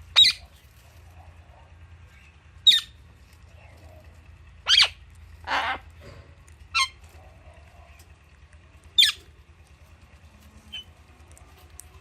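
Alexandrine and Indian ringneck parakeets giving short, sharp high calls, about six of them with pauses of one to two seconds between. The one about halfway through is longer and lower, and a faint call comes near the end.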